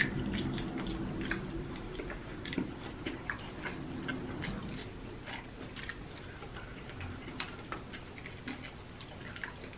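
Two people chewing and biting into crispy fried chicken drumsticks: irregular, scattered crunches and mouth clicks.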